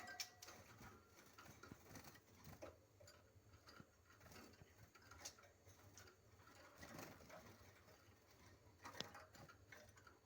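Faint, scattered ticks and taps of small caged songbirds moving about their cages, with a few sharper clicks.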